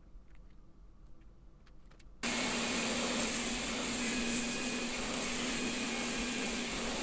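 Faint light clicks, then about two seconds in a motor-driven machine switches on abruptly and runs steadily: a loud, even whir with a low hum.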